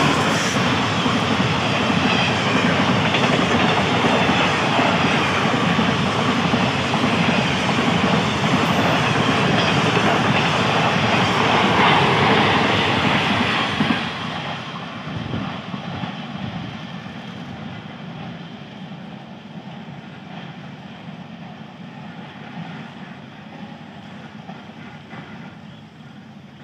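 Passenger coaches of an express train passing close at speed: a loud, steady rush of wheels on the rails. About fourteen seconds in the sound drops sharply, then fades as the train moves away.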